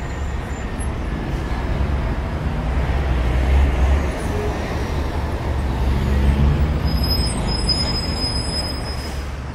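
Street traffic: a steady low rumble of passing road vehicles, swelling twice, about three and a half and six seconds in.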